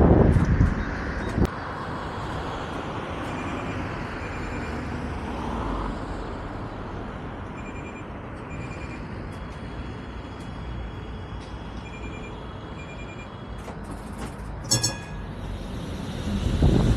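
Vario LF2R.E low-floor tram coming to a halt and standing with a steady low hum, while pairs of short high beeps repeat every few seconds. A sharp clattering signal sounds near the end, and the running noise rises again in the final second as the tram pulls away.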